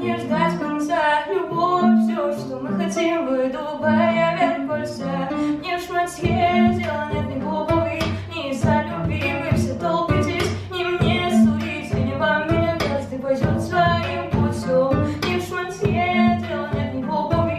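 A woman singing over a guitar. The guitar holds low notes at first, then from about six seconds in it is strummed in steady, regular strokes.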